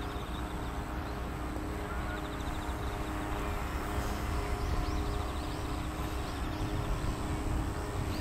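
OS FS-52 four-stroke glow engine of a radio-controlled model airplane running at a steady pitch, over a low rumble.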